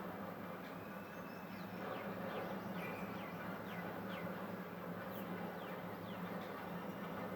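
A series of short chirps, each falling in pitch, repeating a few times a second, over a steady low hum.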